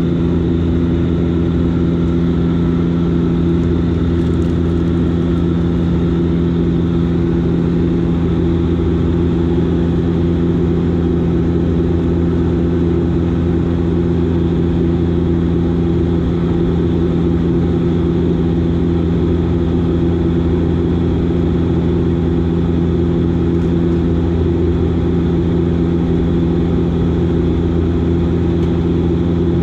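Steady drone of a Dash 8 Q400's Pratt & Whitney PW150A turboprop engines and propellers heard inside the cabin: a constant hum of several low steady tones over a broad rush of air.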